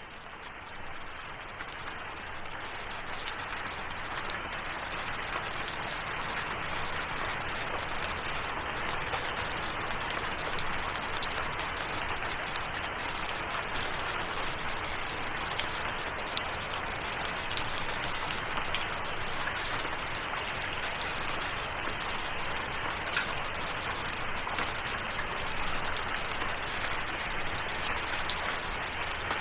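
Steady rain falling, an even hiss with scattered sharp taps of individual drops; it fades in over the first few seconds and then holds steady.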